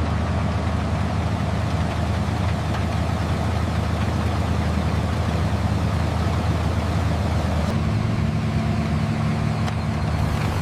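Tractor engine running steadily at a low idle-like note, which shifts slightly about eight seconds in.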